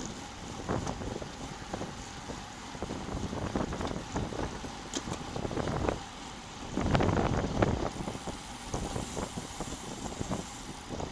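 Wind buffeting a bicycle-mounted action camera's microphone while riding, an uneven rushing with a stronger gust about seven seconds in.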